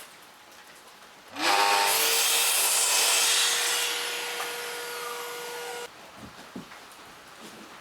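Electric power saw spinning up and cutting wood: its motor pitch rises and settles, the cut is loudest for about two seconds, then the saw runs on more quietly and cuts off suddenly.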